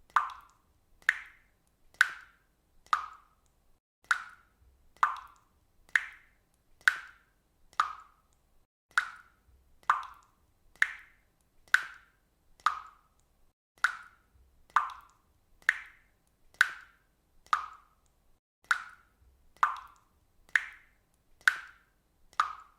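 Water dripping steadily, about one drop a second, each drop a short plop with a brief fading tail.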